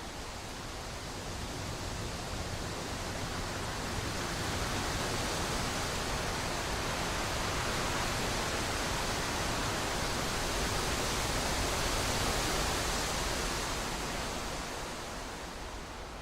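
A steady rushing noise with no distinct events that swells over several seconds and fades near the end.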